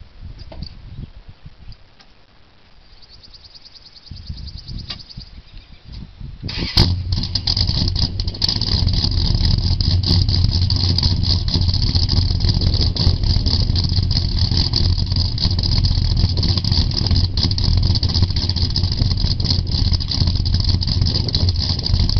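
1973 Dodge Charger's 440 big-block V8 cold start: a few seconds of cranking, the engine catching abruptly about seven seconds in, then running steadily and loudly.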